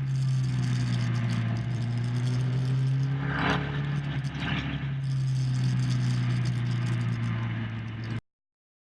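Motorcycle engine running at steady, moderate revs, heard onboard with rushing wind noise on the microphone; the pitch sags slightly, then lifts a little about five seconds in. The sound cuts off suddenly near the end.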